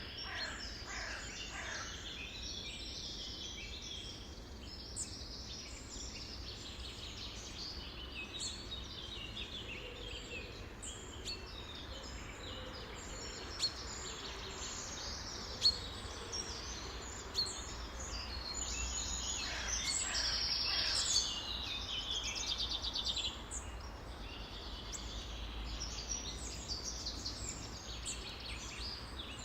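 A flock of songbirds chirping and singing at once in a dense, continuous chorus, with a few louder calls sliding down in pitch about a second in and again around twenty seconds in.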